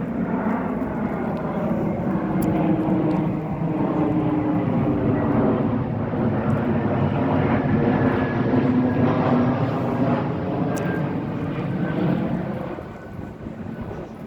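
Jet airliner passing low overhead: engine noise that swells, holds with a shifting, sweeping tone, and fades away near the end.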